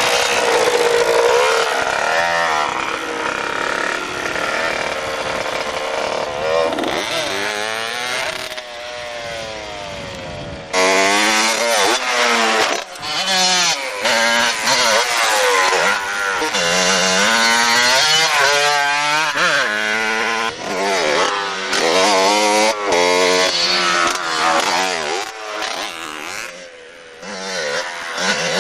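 Motorcycle engine running hard, its pitch rising and falling again and again as it is revved and eased off. It drops back about nine seconds in and comes in loud again suddenly a couple of seconds later.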